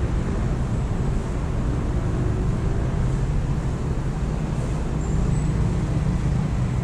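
Steady low rumble of road traffic from the surrounding city, with a few faint high chirps above it, the clearest about five seconds in.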